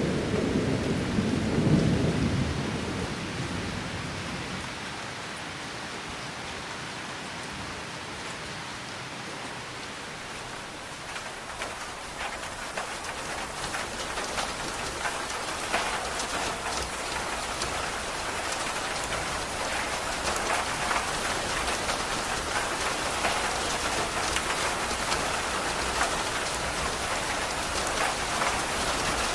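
Steady rain, with a roll of thunder rumbling and dying away in the first few seconds. The rain grows a little heavier about ten seconds in, with single drops ticking close by.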